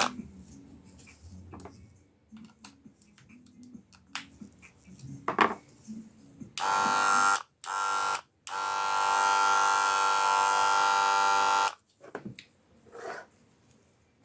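Wahl Senior hair clipper switched on in three runs, two short and one of about three seconds, with a steady buzz, and a few clicks of handling between. It is being run to test whether the blade causes its fault, and with this blade the problem seems not to be the blade.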